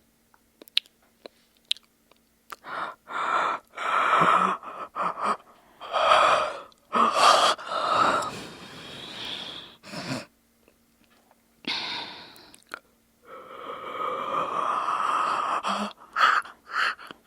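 A person yawning, with long drawn-out breathy yawns: a choppy run of them from about three seconds in, then after a pause one long, sustained yawn near the end. A few faint clicks come before the first.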